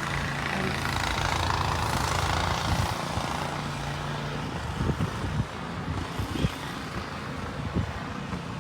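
A motor vehicle engine running with a steady low hum that stops about four and a half seconds in, followed by irregular low thumps of wind on the microphone.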